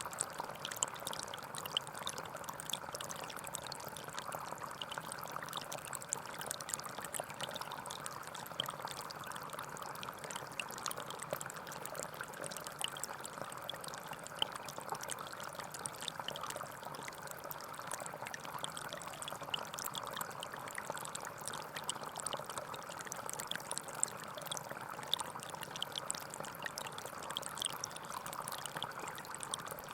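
Forest stream flowing: a steady, even babble of running water with many small trickling splashes.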